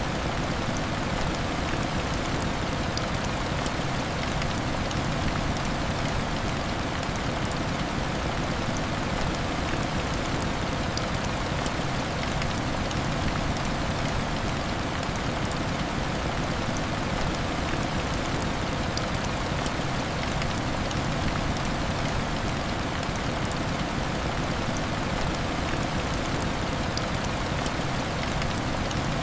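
Heavy rain falling steadily: a dense, even hiss with many small drop taps, unchanging throughout.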